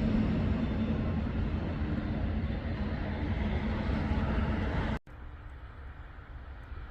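Locomotive running nearby: a loud rumble with a steady hum, cut off abruptly about five seconds in and replaced by a quieter low rumble.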